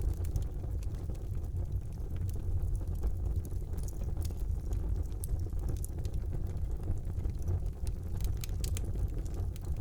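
Wood fire burning in a fireplace: a steady low rumble of flames with scattered sharp crackles and pops from the burning wood, several coming close together near the end.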